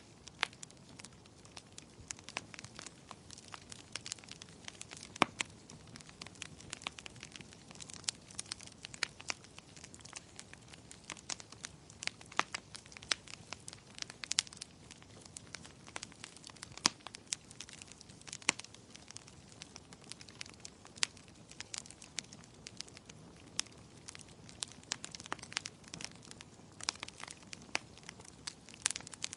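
Wood fire in a fireplace crackling steadily: frequent irregular sharp pops and snaps over a soft low hiss of burning.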